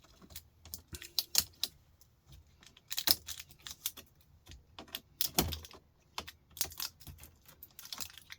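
Irregular light clicks and clatter of small hard electronic parts being handled and knocked together during a teardown, sometimes several in quick succession.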